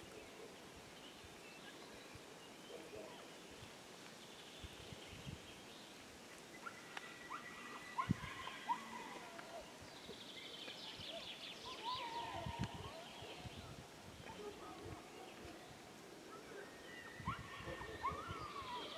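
Several wild birds singing: clear whistled notes that slide in pitch, and rapid chirping trills that come in strongest about ten seconds in and again near the end. A few short low thumps break in around the middle.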